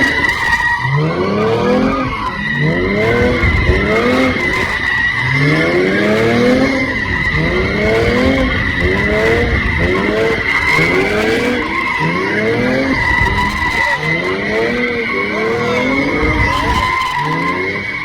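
A V6 car spinning its tyres in a sustained squeal while the engine is revved up and dropped back over and over, about once a second.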